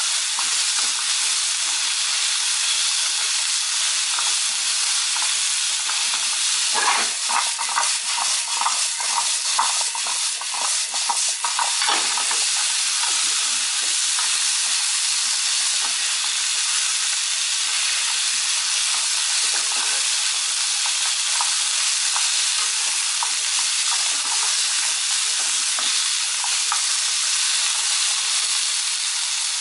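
Diced zucchini sizzling in a frying pan, a steady frying hiss. From about seven to twelve seconds in, stirring adds a run of clicks and knocks as the pieces are turned.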